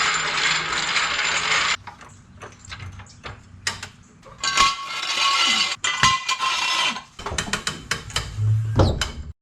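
Metallic clicks and clatter of hand tools reconnecting a car battery's cable terminal, with two stretches of steady rushing noise, one at the start and one about five seconds in.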